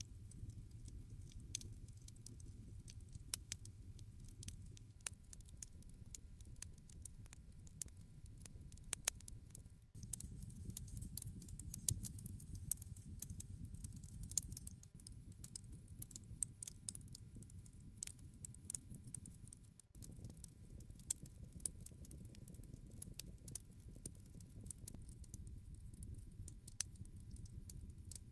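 Wood campfire crackling: scattered sharp pops and snaps over a low, steady rumble of the burning fire.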